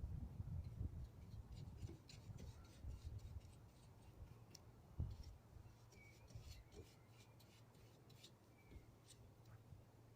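Faint scratching and scattered light clicks of small-scale hand work, over a low steady hum.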